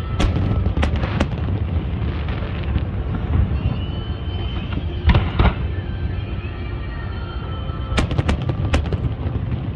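Fireworks bursting: sharp bangs and booms in clusters, three in the first second and a half, two about five seconds in and three near the end, over a constant low rumble. Music plays throughout.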